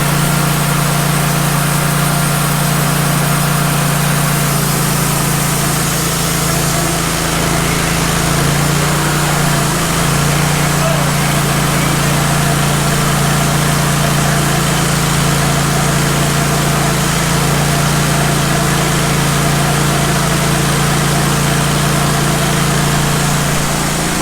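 Wood-Mizer LT15 band sawmill's engine running steadily with a constant low hum.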